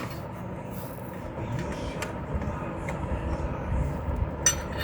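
A steady low rumble, like a vehicle engine running nearby, swelling a little after the middle. Over it come a few sharp metallic clicks, the loudest near the end, as a wrench works a nut.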